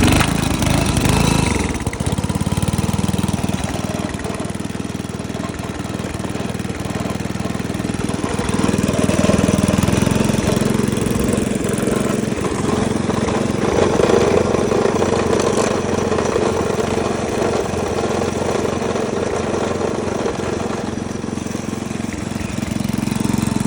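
Rover chip-and-shred's 5 hp Briggs and Stratton single-cylinder engine running steadily just after starting, its level swelling slightly a few times.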